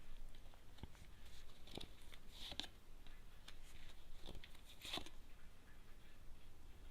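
Tarot cards being handled and laid down on a table: a few soft taps and paper rustles, spaced about a second apart.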